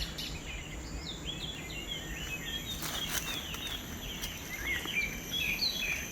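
Birds chirping in many short, quick notes, over a steady high-pitched insect drone.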